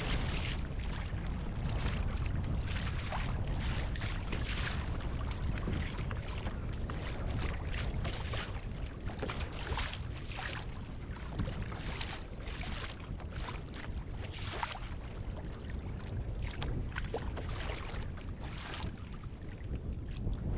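Wind rumbling steadily on the microphone, with frequent short splashes of choppy water slapping against a kayak.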